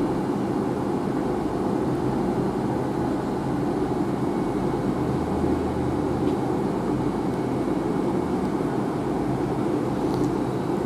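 A train's diesel engine running with a steady low hum that holds the same pitch throughout.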